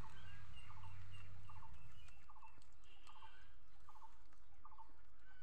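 A bird calling in a steady rhythm: short, evenly spaced calls, a little more than one a second, about eight in all.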